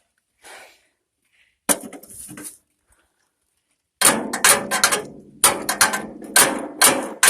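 Sharp metal knocks from striking a tractor starter's cog to drive it onto the shaft, using a rock in place of a hammer. A short cluster of blows comes about a second and a half in, then a steady run of about ten strikes, roughly three a second, near the end.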